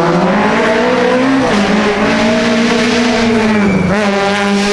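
Rally car engine at full throttle, the revs climbing and then dropping sharply at a gear change about a second and a half in. The revs dip again near four seconds and climb once more, with a heavy rush of tyre and road noise over the engine.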